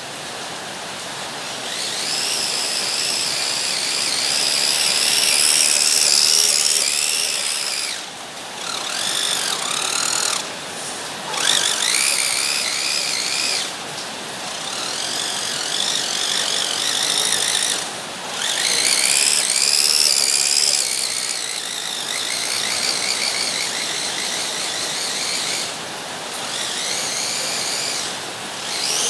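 Small electric motors and gear trains of radio-controlled toy cars whining, the pitch rising and falling with the throttle and cutting out briefly several times.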